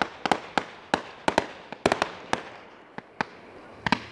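Fireworks going off: a rapid, irregular series of sharp cracks and bangs, about three or four a second.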